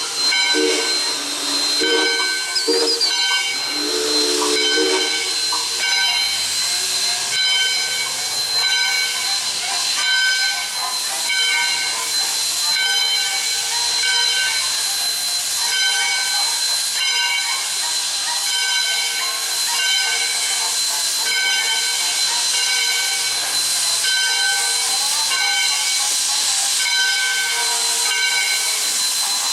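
Steam locomotive working: its whistle sounds in short blasts during the first few seconds, then a steady hiss of steam with evenly repeating pulses runs on.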